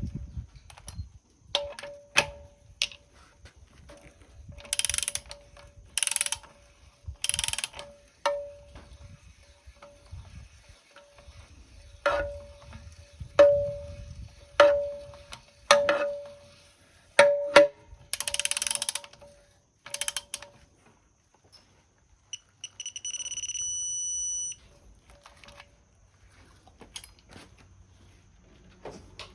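Hand ratchet and socket at work on engine fasteners: bursts of rapid ratchet clicking and sharp metal clinks that ring briefly. Near the end comes a steady electronic beep of about two seconds, the signal a digital torque adapter gives when the set torque is reached.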